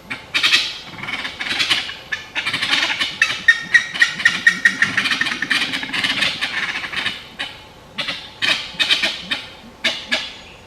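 Birds calling: bursts of rapid, harsh chattering notes, with a quick run of higher repeated notes near the middle.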